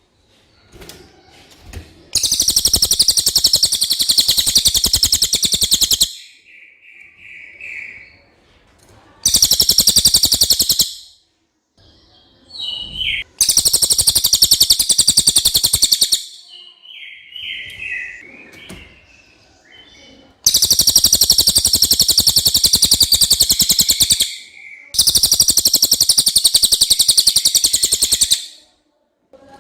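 Cililin singing: loud, very rapid high trills, each lasting one to four seconds, given five times, with softer short, lower phrases between them.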